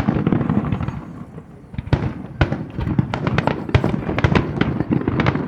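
Aerial fireworks bursting in quick succession, many sharp bangs and crackles overlapping. There is a brief thinning about a second in, then a denser run of bangs from about two seconds in.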